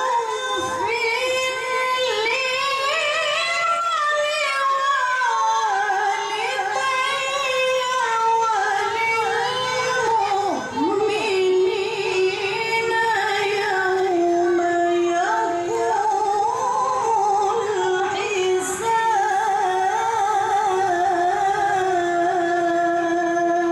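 A woman's high voice reciting the Quran in melodic tilawah style, holding long, ornamented notes. The line climbs to its highest pitch in the first few seconds, then settles lower and is held there.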